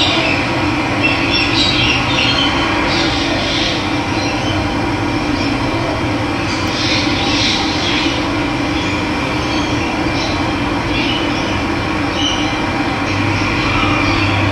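Running water flowing steadily, with birds chirping now and then over it.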